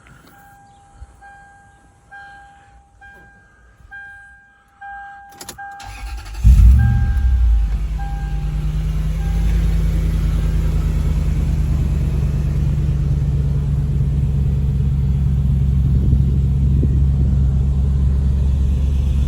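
A car's warning chime beeps over and over, then a sharp click. The 2004 Lexus GX470's 4.7-litre V8 cranks and catches about six seconds in, flares briefly, and settles into a steady low idle through its R4T cat-back exhaust.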